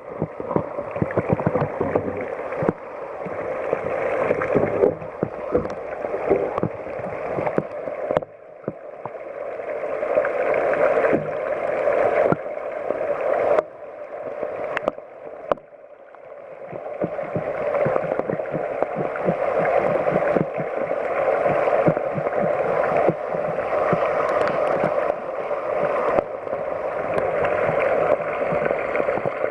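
Mountain headwater stream rushing and gurgling over rocks. Its level drops sharply several times, about eight, thirteen and fifteen seconds in, and swells back up each time.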